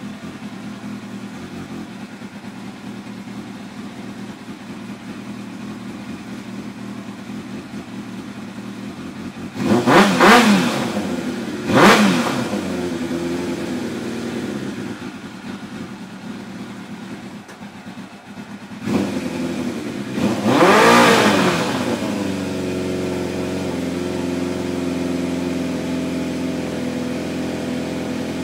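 Kawasaki Ninja ZX-7R's 750 cc inline-four engine idling after carburettor cleaning. It is blipped up and back down twice about ten seconds in and twice more about halfway through, then settles into a steady idle.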